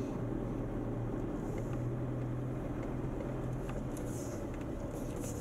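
Land Rover Defender's engine running steadily at low revs, a low hum heard from inside the cabin as the vehicle creeps along in first gear.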